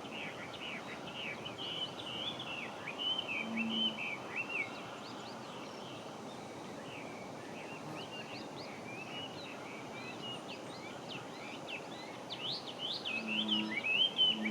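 Chinese hwamei (Garrulax canorus) singing a long run of rapid, varied whistled notes over a steady background hiss. The song thins out midway and comes back strongly near the end, with a few short low hoots underneath.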